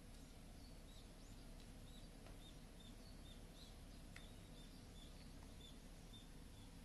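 Near silence: low background hiss with faint, high bird chirps repeating about twice a second.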